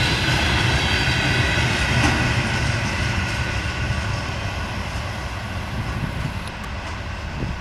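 Railway tank cars of a freight train rolling past on the rails, their wheels making a steady rumbling clatter that fades slowly as the end of the train moves away.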